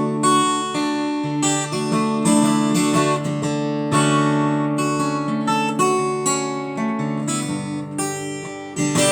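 Acoustic guitar strummed and picked, playing the instrumental introduction to a love song.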